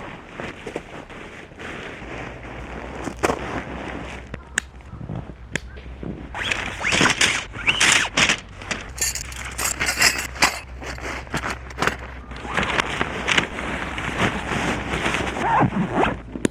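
Irregular clicks and light knocks mixed with short bursts of rustling, busiest in the middle.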